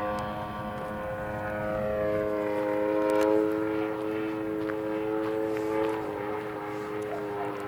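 Radio-controlled model airplane's motor and propeller running: a steady buzzing drone whose pitch shifts slightly.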